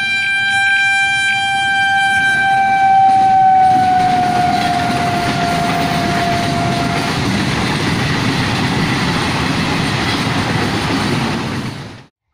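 Electric multiple unit local train sounding its horn, one long note held for about seven seconds whose pitch slides down as the train comes past, over the rumble of the coaches running by. The sound cuts off abruptly near the end.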